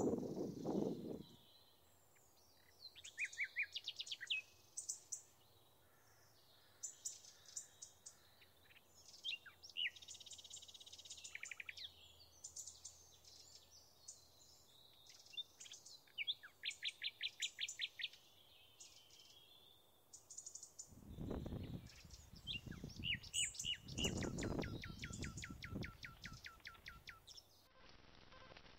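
Birds singing and calling on a mountain slope: a mix of short high chirps and rapid trilled series of notes. Two bursts of low rumble come in about two-thirds of the way through, while the trills carry on.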